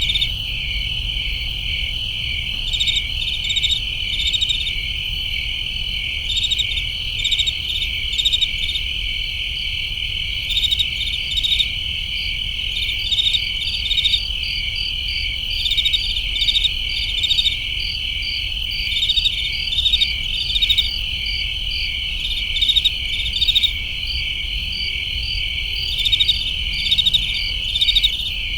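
A chorus of crickets chirping: a steady high trill with louder chirps repeating in short groups over it every second or two, over a faint low background rumble.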